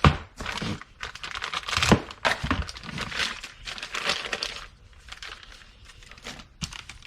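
Packaging crinkling and tearing as a mounting part is unwrapped by hand, with a sharp knock at the start and another about two seconds in. The rustling thins out near the end.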